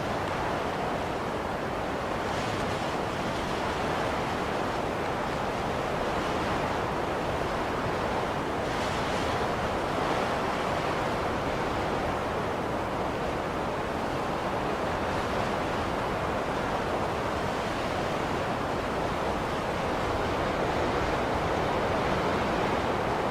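Blizzard wind blowing steadily, an even rushing noise with a couple of faint hissy swells about two and nine seconds in.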